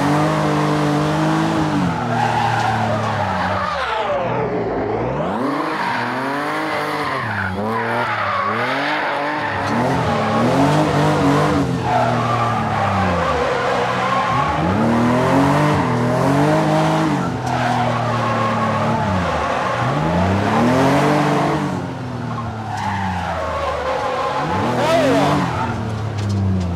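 BMW E36 drift car's engine revving up and falling back over and over, about eight surges, as the car slides with its tyres skidding.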